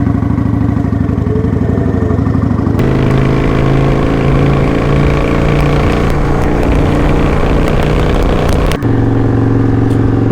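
Kawasaki Vulcan 900's V-twin engine running under way, pulling harder from about three seconds in with a rush of wind noise. About nine seconds in the sound breaks off briefly at a gear change, then settles into a steadier, lower note.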